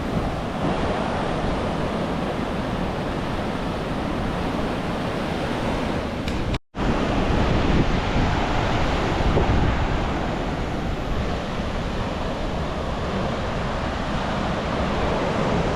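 Ocean surf washing on a beach, with wind buffeting the microphone as a steady rushing noise. The sound drops out for an instant about six and a half seconds in, then resumes.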